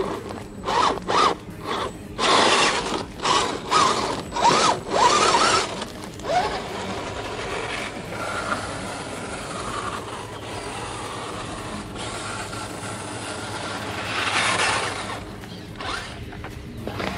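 An RC crawler's electric motor and metal-geared drivetrain whirring in short bursts of throttle, the pitch rising in several of them, then running more steadily and quietly.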